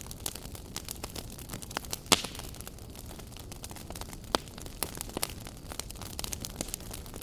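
Wood fire burning in a fireplace, crackling steadily with scattered sharp pops, the loudest about two seconds in.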